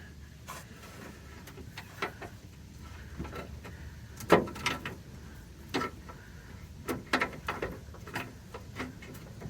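Irregular clinks and knocks of hand tools and parts being handled as a new idler arm is worked onto its mounting bolts, about a dozen sharp knocks spread unevenly, the loudest about four seconds in.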